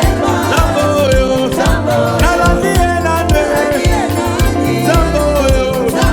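Live gospel praise and worship music: a singer's melody over bass, keyboard and drums with a steady beat.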